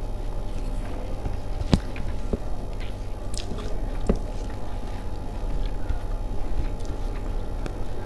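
A person chewing food with their mouth close to the microphone, with a few sharp clicks, the loudest about two seconds in, over a steady low hum.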